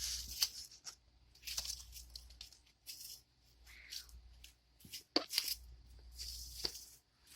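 Packaging of a boxed model truck being handled: a series of rustling, crinkling bursts with a few sharp clicks.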